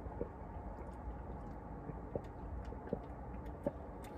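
Close-up chewing and small wet mouth clicks from someone eating a sub sandwich, over a steady low hum.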